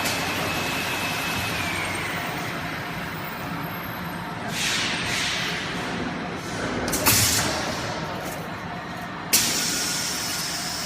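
Stretch film rewinding machine running with a steady mechanical hum and a high whine that drops in pitch early on, broken by several sharp hissing bursts, the last starting suddenly near the end and carrying on.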